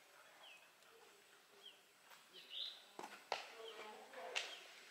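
Small birds chirping: short, high, falling chirps, a few times, with several sharp clicks in the second half and faint voices.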